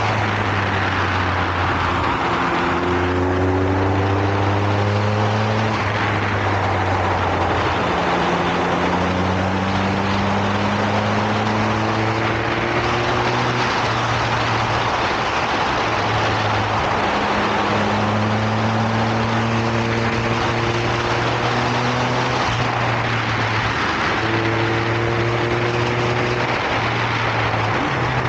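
Motorcycle engine under way, its pitch rising slowly several times and then dropping back as the bike accelerates and changes gear, under a steady rush of wind noise.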